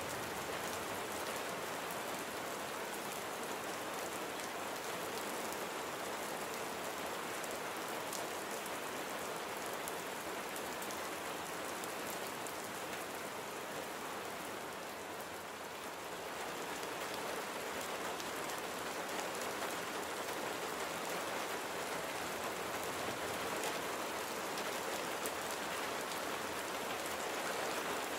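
Steady rain falling, a dense even hiss of many drops striking a surface, easing slightly about halfway through before picking up again.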